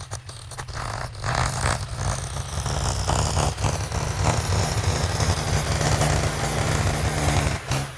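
Heavy earthmoving machine's engine running steadily, a deep rumble with clanks and rattles over it.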